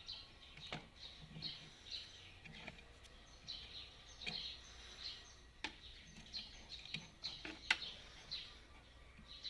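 Faint, rapid bird chirps repeating every half second or so, with a few sharp clicks scattered through and a low steady hum underneath.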